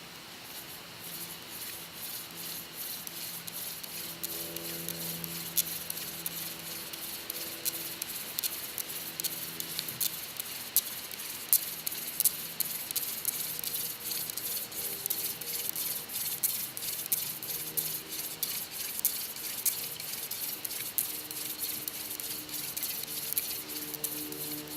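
Hand-drill friction fire: a mullein spindle spun between the palms in a socket in an eastern white cedar hearth board, giving a continuous dry scratchy rasp with many sharp ticks and squeaks from wood grinding on wood.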